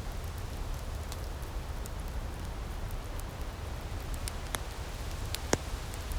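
Outdoor firepit crackling: scattered sharp pops over a steady low rumble and hiss, with one louder pop near the end.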